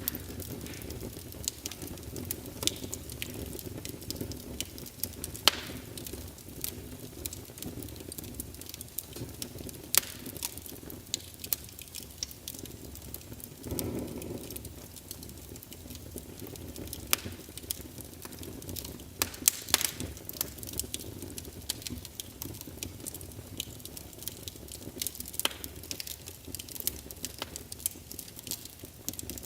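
Wood fire in a fireplace crackling, with a steady low rumble of the flames and frequent irregular sharp pops and snaps, a few of them louder, and a brief swell in the rumble about halfway through.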